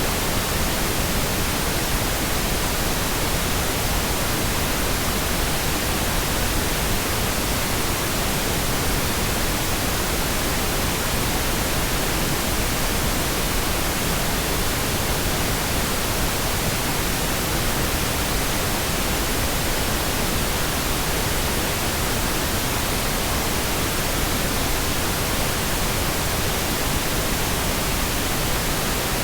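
Steady synthetic pink noise: an even, unchanging hiss spread across the whole range of pitch, with no breaks or events.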